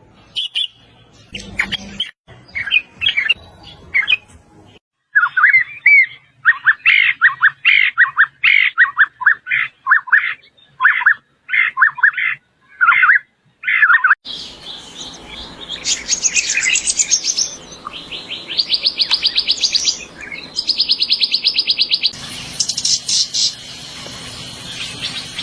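Bird song from several recordings spliced one after another. First come scattered short chirps, then a long run of sharp, evenly repeated whistled notes. About halfway through, the sound switches to fast buzzy trills over a steady background hiss.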